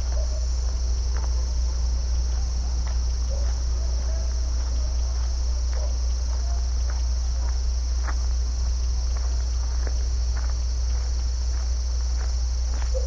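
A steady, high-pitched chorus of crickets or other insects over a constant low rumble, with scattered short clicks and chirps.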